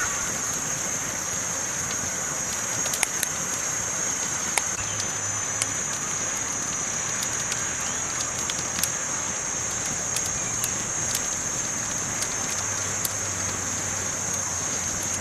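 Campfire burning with a steady hiss and scattered sharp crackles and pops of the burning wood.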